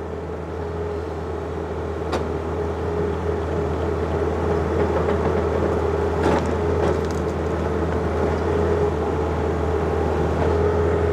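John Deere 50ZTS mini excavator's diesel engine running steadily under load while digging out a stump, slowly getting louder. There are a couple of short knocks, about two and six seconds in.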